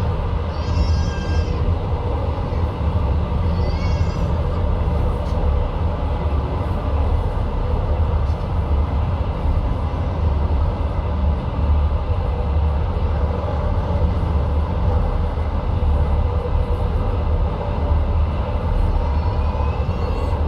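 Passenger train running along the track, heard from inside the carriage: a steady low rumble of wheels on rails. Brief high squeals cut in about one second and again about four seconds in.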